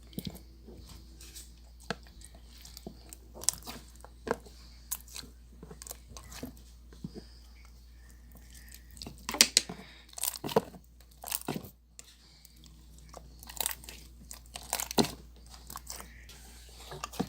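Clear slime being squeezed and worked by hand, making irregular sticky clicks and crackling pops in bursts, the loudest about halfway through.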